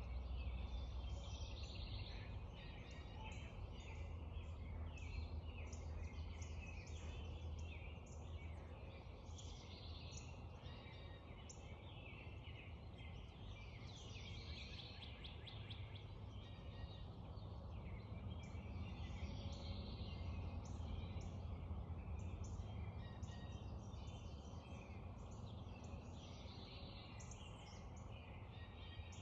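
A spring dawn chorus of many songbirds chirping and singing at once, with a rapid trill about halfway through, over a faint steady low rumble.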